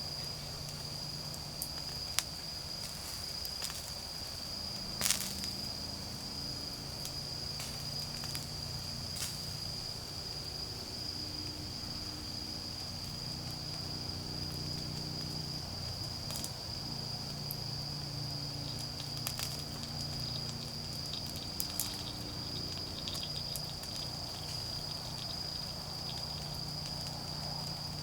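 Autumn insects trilling in one continuous high-pitched note, over a wood campfire crackling in scattered sharp pops, the loudest about five seconds in. A low steady hum runs underneath.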